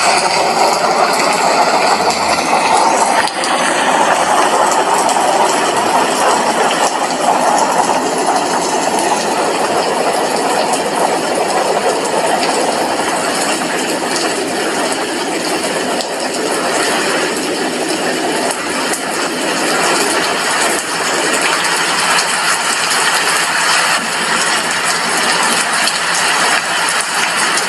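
Heavy rain falling steadily on a glass window, a dense, even hiss of drops with no distinct thunderclap.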